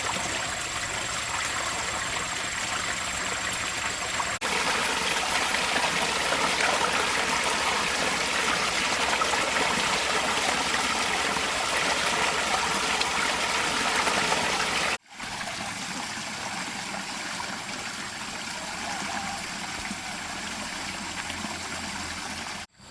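Steady rushing noise like running or spraying water. It jumps louder about four seconds in and drops back quieter at an abrupt break about fifteen seconds in.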